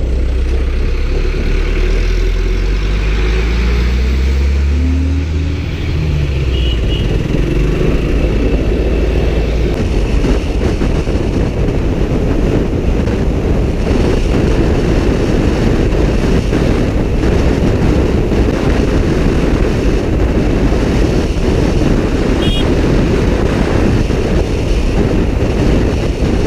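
Suzuki Gixxer SF motorcycle ridden at highway speed, heard onboard with heavy wind buffeting on the microphone; the engine revs up, rising in pitch, over the first several seconds, then holds a steady cruise under the wind and road rush.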